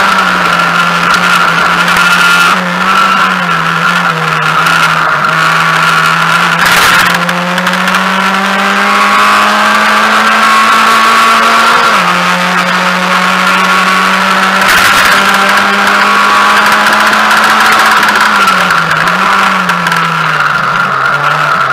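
Mazda MX-5 race car's four-cylinder engine heard from inside the cabin, running hard at high revs. Its pitch climbs steadily under acceleration and drops abruptly at gear changes near the start, just past halfway and near the end. There are two brief knocks, about a third of the way in and about two-thirds in.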